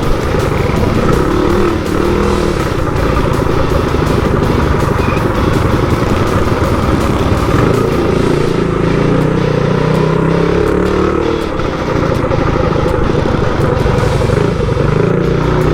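Small racing boonie bike's engine running hard, its note rising and falling over and over as the throttle is opened and closed through the laps, with rattling from the bike over the dirt.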